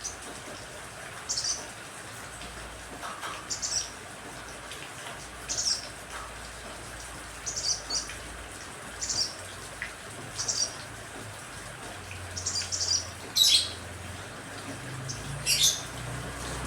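Small birds giving short, high chirps about once a second, two louder calls near the end, over a steady hiss of rain.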